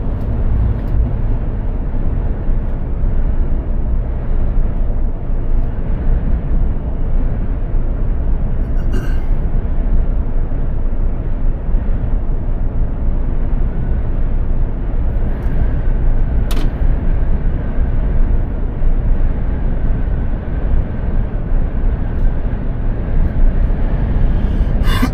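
Mercedes-Benz Actros 2763 truck on the move, a steady low rumble of engine and road noise. A few short clicks come through, one around 9 seconds in, a sharper one a little past the middle, and another at the very end.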